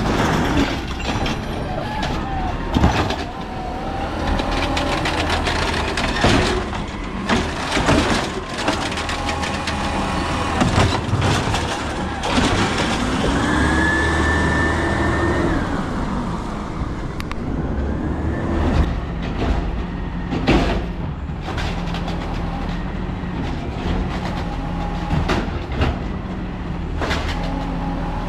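Peterbilt 320 garbage truck with an Amrep Elliptical N2 automated side-loader body at work: repeated clanks and bangs of metal and trash, and the diesel engine revving up and back down about halfway through, then running steadily.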